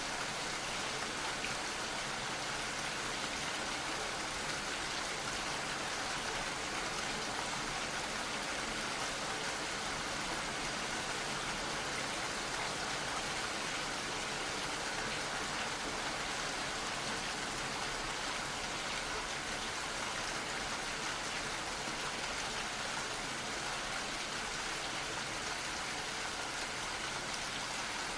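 Gentle rain falling steadily, a constant even patter with no change in strength.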